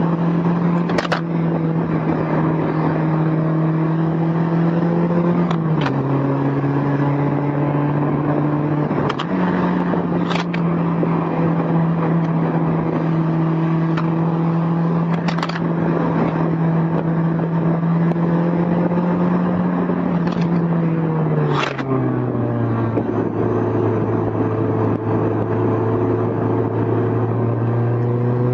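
Honda S2000's four-cylinder engine running at a steady pitch while driving with the top down, the note dipping about five seconds in, rising again a few seconds later, and dropping lower about 22 seconds in. Sharp clicks now and then are the loose recorder clattering on the passenger seat.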